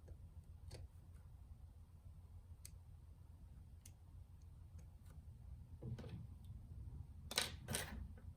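Faint, scattered small clicks and taps, with two louder sharp clicks close together near the end, like small parts being handled during a console teardown.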